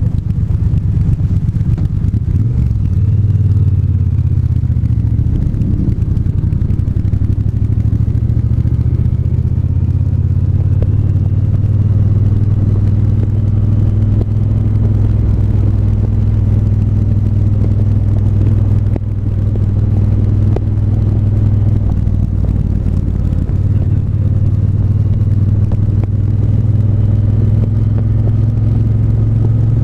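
Triumph 1200 cc parallel-twin motorcycle engine running at a steady cruise during a ride, its pitch holding nearly level with small changes in throttle and a brief easing off about two-thirds of the way through.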